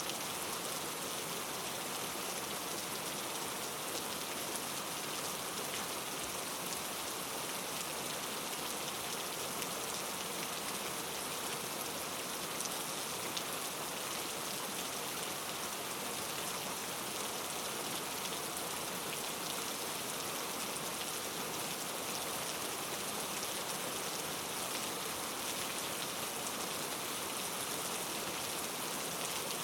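Steady rain falling on surfaces, a constant hiss with fine scattered drop ticks.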